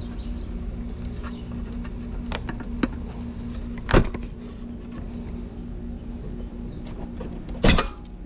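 Steady electrical hum of air-conditioning equipment, with a few light clicks and two sharp knocks, about four seconds in and near the end.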